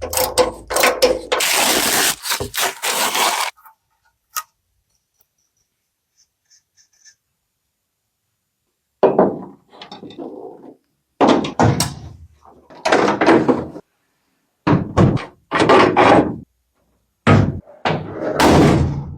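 Workshop hand-work noises: a run of thuds and scrapes that stops, a few seconds of quiet, then a string of separate knocking and scraping bursts about every second or so.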